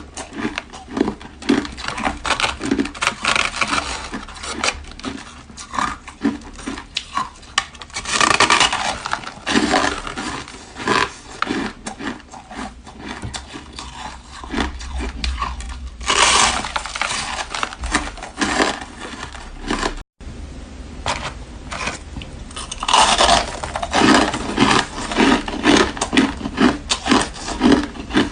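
Close-up crunching and chewing of frozen purple-flavoured ice: a steady run of crisp crunches, with heavier bites about eight, sixteen and twenty-three seconds in.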